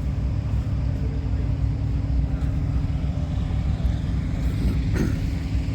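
A diesel truck engine idling: a steady low rumble.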